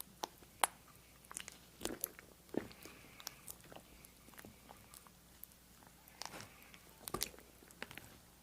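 Close-miked ASMR trigger sounds: sparse, irregular crisp clicks and small crunches, a few louder ones near 2 s, 6 s and 7 s.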